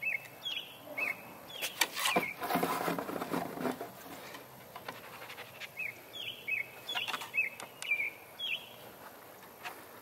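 A bird calling in short, falling chirps, a few near the start and a run of about eight from around six seconds in. Between them, for about two seconds, comes a louder burst of close rustling and scuffling with a few clicks.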